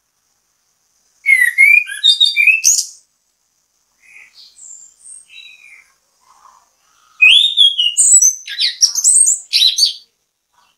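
Orange-headed thrush (anis kembang) singing in two loud phrases of quick, varied, sliding whistled notes, with a few softer notes in the pause between them.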